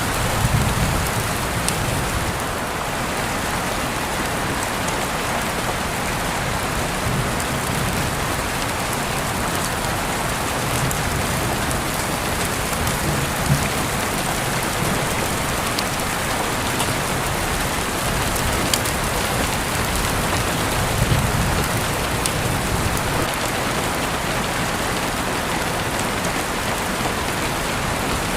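Steady rain falling and pattering on a surface: an even hiss with scattered sharp drop ticks and a few low rumbling swells.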